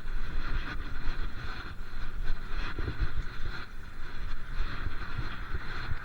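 Wind buffeting the microphone of a moving bike in uneven gusts, over a steady hiss of tyre and road noise.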